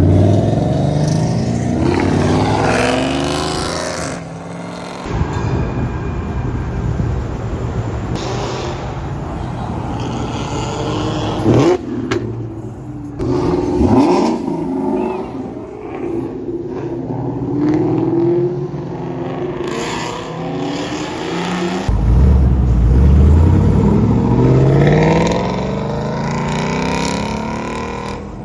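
Several cars accelerating hard one after another, each engine revving up in rising pitch as it pulls away and passes. The loudest pass is near the end, with a sharp crack about twelve seconds in.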